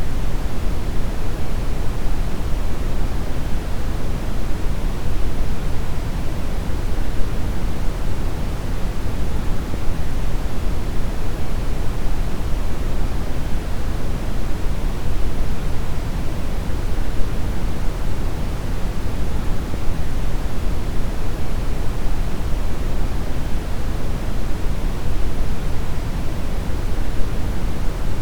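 Steady brown noise: an even, deep hiss weighted heavily toward the low end, without change or pattern.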